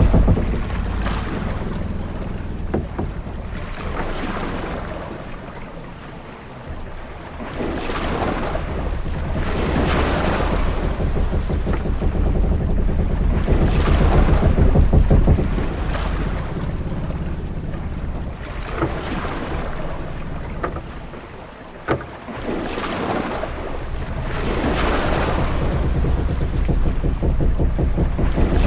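Ambience of a sailing ship at sea: waves swelling and washing every few seconds over a low rumble of wind, with a few short knocks from the ship, the sharpest about 22 seconds in.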